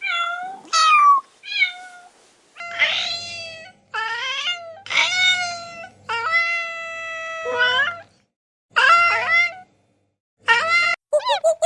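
A cat meowing over and over, about nine meows with pauses between, one held long in the middle. Near the end a rapid run of short, different calls begins.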